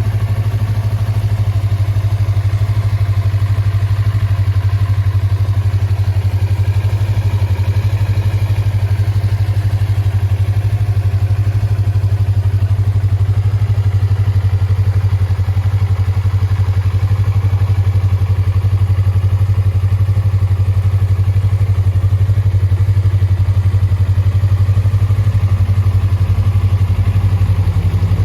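Yamaha YZF-R25's 249 cc parallel-twin engine idling steadily, its low exhaust note holding one even pitch with no revving.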